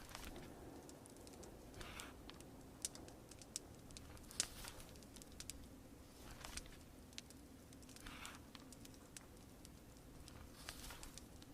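Faint fireside ambience: a fire crackling with scattered sharp pops, and soft papery swishes of pages turning about every two seconds, over a steady low patter of rain.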